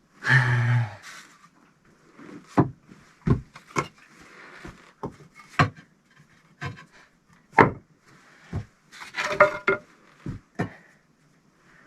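Bricks knocking and being tapped into place while a brick stove is laid: about a dozen sharp, irregular knocks, starting with a short pitched scrape.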